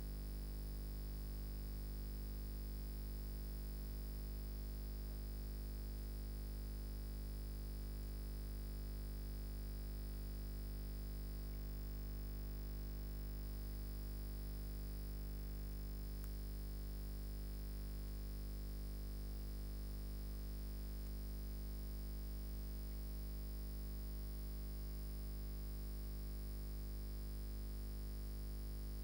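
Steady electrical hum, a deep buzz with many overtones that does not change at all.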